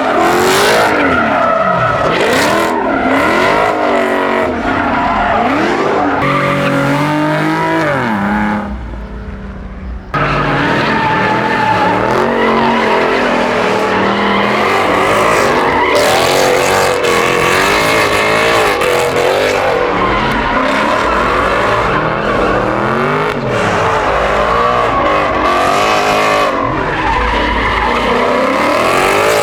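Car engine revving hard up and down while the tyres squeal and skid, as in drifting or doing donuts. The engine dips briefly about nine seconds in, then picks up again.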